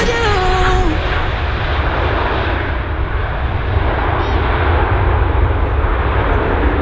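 Jet airliner's engines, a loud, steady rumble with a rushing hiss whose highest part fades away after a few seconds.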